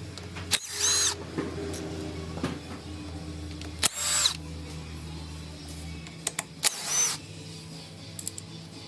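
A handheld power tool, such as a drill or impact driver, spinning up in three short bursts about three seconds apart, its motor whine rising and falling in each, over steady background music.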